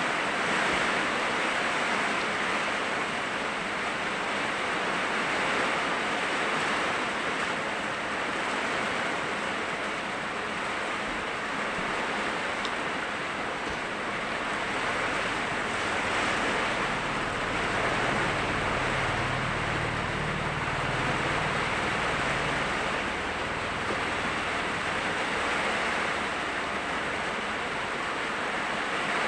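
Heavy rain pouring steadily, an even hiss with no break. A faint low hum comes in about halfway through and fades again.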